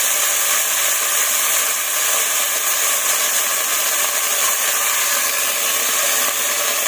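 Lentils sizzling steadily in hot oil in a pot, a constant loud frying hiss.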